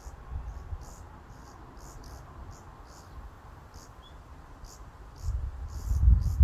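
Forest ambience: a high, short chirp repeating about twice a second over a low wind rumble, which swells into a strong gust about five seconds in.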